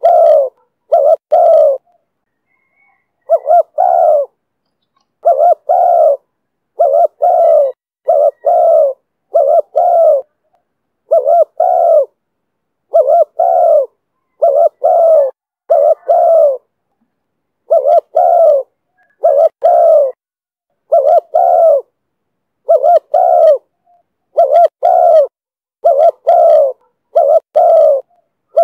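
Spotted dove cooing in the 'thổ thúc bổi' call style: short low coo notes coming in quick pairs and threes, over and over, with clean silence between the groups.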